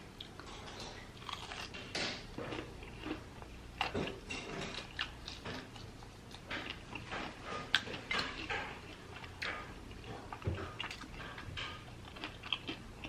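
Close-miked biting and chewing of a hot-sauced fried chicken wing: a run of small, irregular crunches and mouth clicks.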